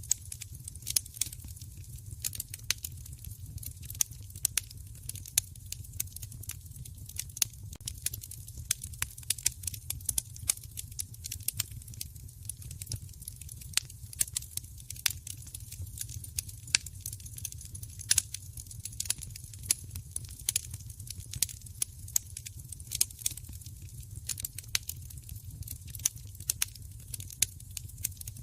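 Wood fire in a fireplace crackling steadily, with frequent irregular sharp pops and snaps over a constant low rumble.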